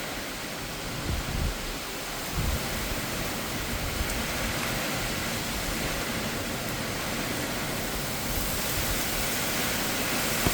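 Heavy thunderstorm rain falling in a steady, dense hiss that grows slowly louder, with a few low thumps in the first couple of seconds.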